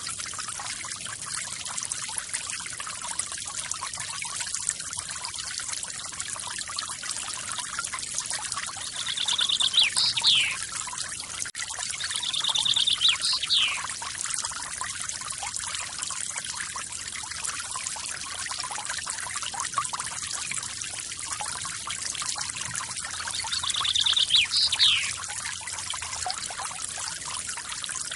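A small forest waterfall pours and trickles steadily. A bird calls three times over it, each call a short fast trill followed by a quick falling note: about ten seconds in, again a few seconds later, and once more near the end.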